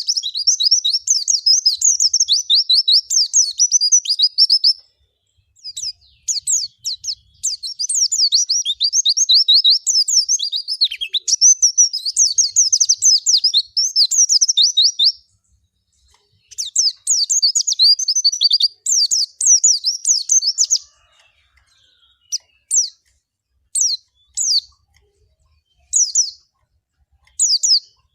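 White-eye (pleci) singing a rapid, high-pitched twittering song in long, fast runs of notes with short breaks between them. Near the end the song gives way to short, separate chirps.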